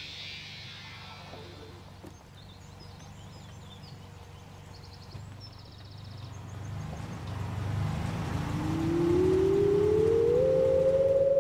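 An old convertible's engine running with a low, pulsing rumble, then growing louder and rising in pitch from about eight seconds in before holding a steady higher note near the end. Birds chirp faintly in the first few seconds.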